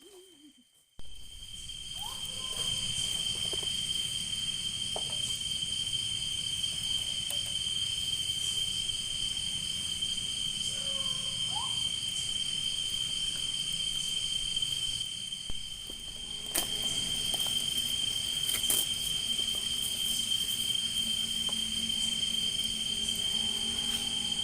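Insect chorus, crickets or similar, giving a steady high-pitched trill without a break. A few short rising calls sound briefly here and there over it.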